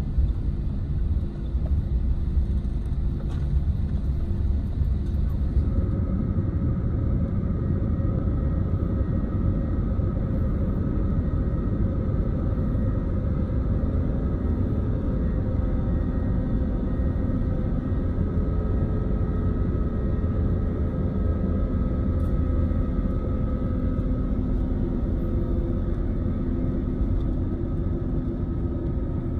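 Jet airliner heard from inside the cabin at takeoff: a steady low rumble of engines and runway, with several steady engine whine tones coming in about six seconds in and holding.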